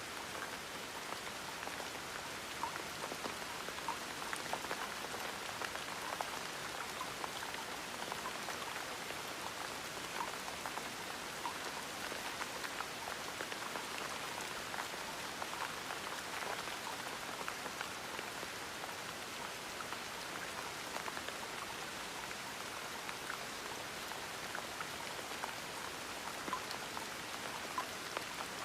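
Steady gentle rain: a soft even hiss with scattered individual drops pattering on a surface.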